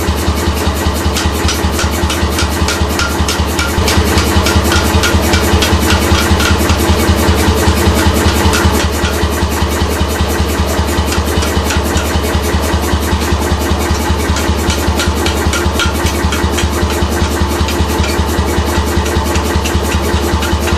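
C41 pneumatic (air) forging hammer running, its ram beating in a fast, even rhythm of sharp blows. It gets louder for a few seconds from about four seconds in.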